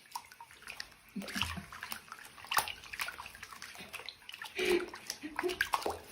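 Water splashing and sloshing in a small tub or basin, in irregular bursts, with a brief short pitched sound about four and a half seconds in.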